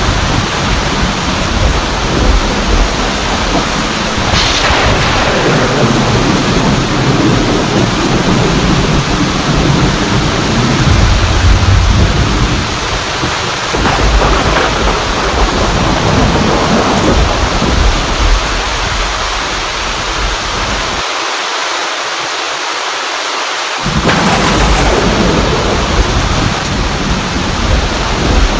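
Steady heavy rain with thunder rumbling on and off beneath it, loudest about ten to twelve seconds in. Near the end the deep rumble stops abruptly for about three seconds, leaving only the rain, then returns.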